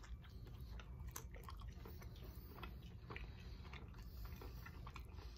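A person biting into and chewing a hot buffalo wing close to the microphone: faint, irregular wet clicks and smacks over a low steady hum.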